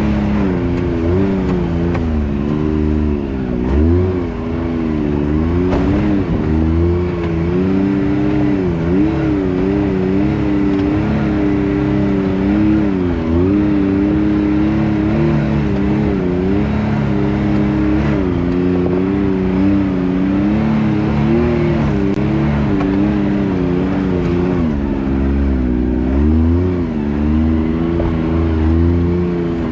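Can-Am X3's turbocharged three-cylinder Rotax engine pulling at low speed over a rocky climb, its revs rising and dipping over and over with the throttle.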